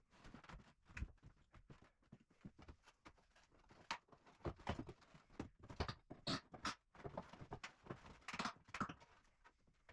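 Old wooden floorboards being pried up and handled during floor demolition: irregular knocks and scraping, busiest in the second half.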